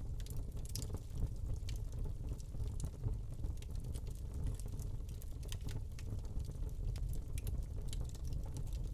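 Wood fire burning in a fireplace: a steady low rumble of the flames with irregular small crackles and pops from the burning log, several a second.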